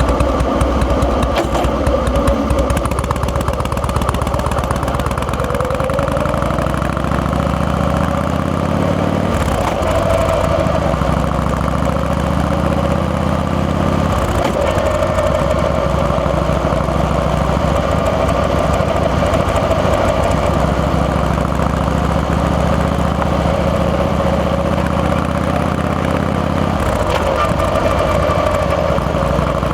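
Harley-Davidson Fat Boy's Twin Cam 88 air-cooled V-twin running under way, its note climbing slowly in pitch as the bike gathers speed. The note breaks and drops three times, about nine, fourteen and twenty-seven seconds in, as at gear changes.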